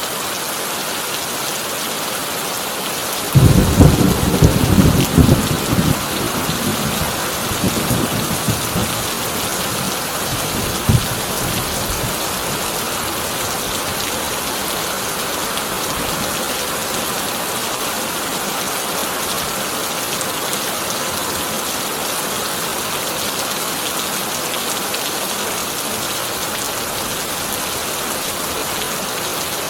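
Heavy rain falling steadily on a corrugated tin roof. A thunderclap breaks in about three seconds in, rumbles on loudest for a few seconds, then fades with a few smaller cracks by about eleven seconds in.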